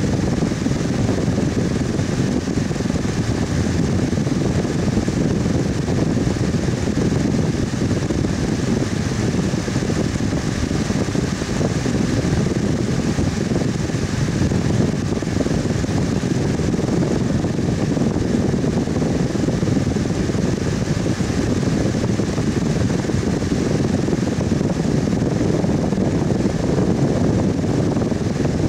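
Fan running steadily: an even rush of moving air with a low hum and a faint steady whine above it, unchanging throughout.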